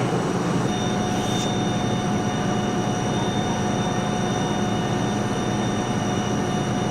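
A heavy engine running steadily with a low drone, and a thin steady whine joins about a second in.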